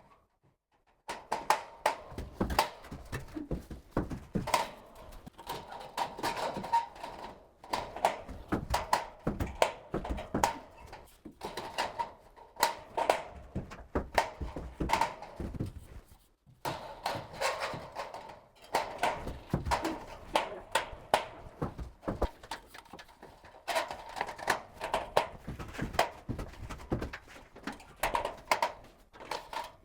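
Irregular knocking and clattering of carpentry work: wood and tools striking and being handled in a small room during suspended-ceiling framing, with many sharp knocks in quick, uneven succession.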